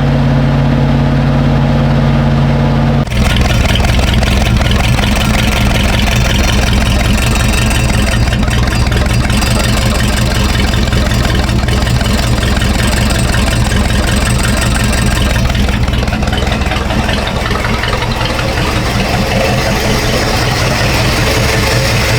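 Small-block Chevy 350 V8 in an old pickup, running steadily at idle after being revived on fresh fuel. About three seconds in the sound changes abruptly to a rougher, fuller running note that then holds steady.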